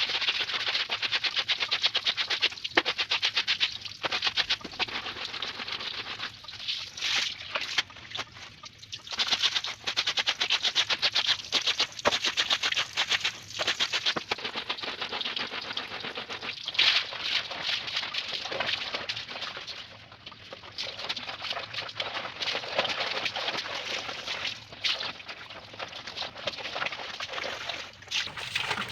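Laundry being scrubbed by hand: rapid rasping strokes in runs of a few seconds, with short pauses between.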